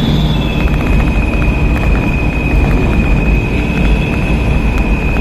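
Truck engines running with a loud, steady low rumble. A thin steady high tone sits over it.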